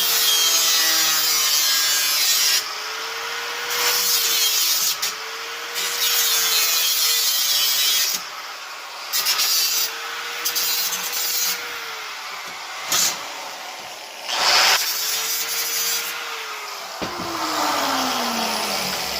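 Power tool cutting thick sheet steel for a floor patch, in several passes with short breaks; the motor's whine sags under load and recovers, and near the end it falls away as the tool winds down.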